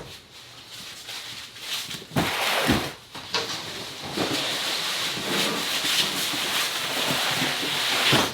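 Packaging rustling and tearing as a box is opened, with a few knocks early on, then a dense rustling noise that stops abruptly near the end.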